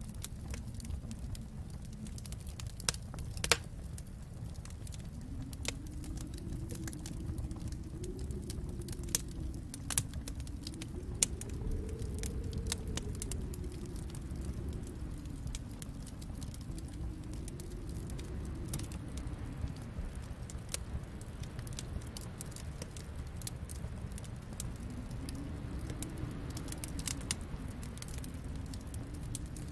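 Wood fire in a fireplace crackling steadily, with scattered small pops and a few louder snaps over a low, slowly swelling rumble.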